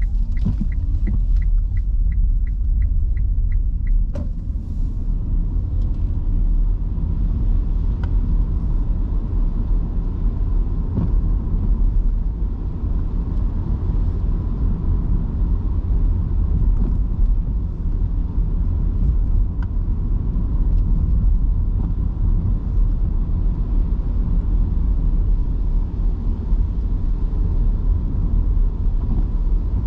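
Steady low road and tyre rumble heard inside the cabin of a Nissan Leaf electric car driving in heavy rain, with rain noise over it and no engine sound. Through the first four seconds there is a light regular ticking, about two or three a second, which stops with a click.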